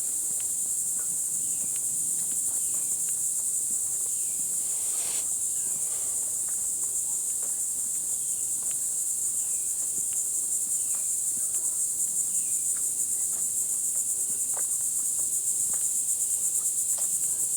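Steady high-pitched chorus of insects, with short falling chirps repeating about once a second and a few light clicks.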